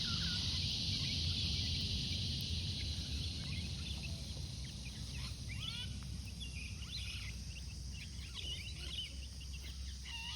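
Baby chicks peeping: short, high, falling cheeps, scattered and growing more frequent from about three seconds in, over a steady high insect drone.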